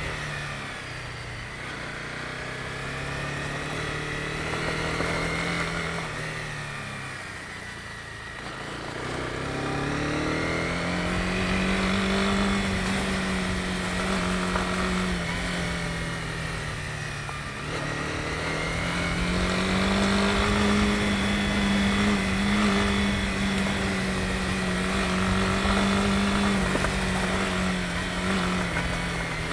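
Honda CB250R's single-cylinder four-stroke engine running as the motorcycle is ridden. The engine note falls away about seven seconds in, climbs again a couple of seconds later, and dips and rises once more just past the halfway point, over a low road and wind rumble.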